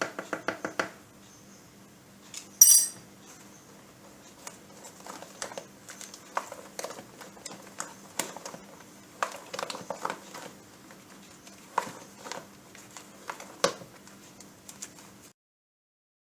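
Spatula stirring a thick mixture in a bowl: irregular clicks and taps of the utensil against the bowl, starting with a quick run of strokes and with one sharper knock between two and three seconds in. A faint steady hum runs underneath, and the sound cuts off abruptly about a second before the end.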